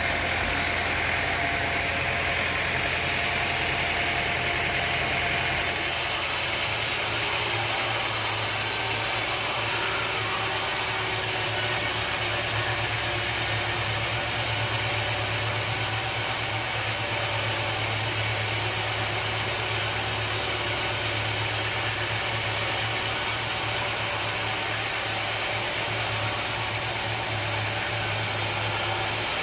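Sawmill machinery running steadily: a constant engine or motor hum under an even hiss, with a slight shift in the hum about six seconds in.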